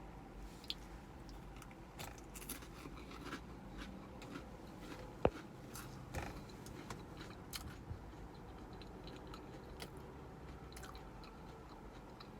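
Close-up chewing and wet mouth sounds of a person eating chili, with scattered small clicks and one sharp click about five seconds in. A faint low rumble of traffic runs underneath.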